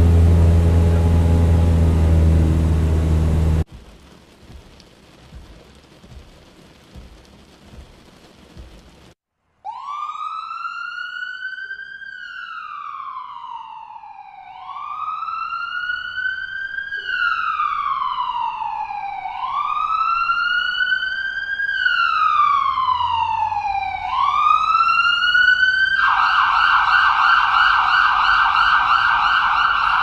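An airplane engine sound that cuts off abruptly about four seconds in. After a faint pause, a police siren starts wailing in slow rising-and-falling sweeps of about five seconds each, then switches to a fast yelp near the end.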